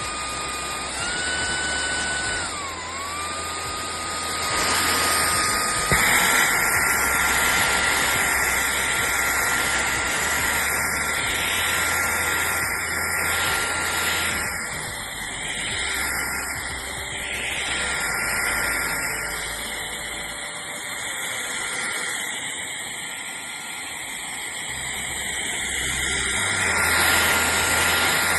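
Shark cordless stick vacuum running: a steady motor whine over a rushing airflow hiss. The pitch steps up about a second in, dips briefly near three seconds, and steps up again about six seconds in as the motor speed changes.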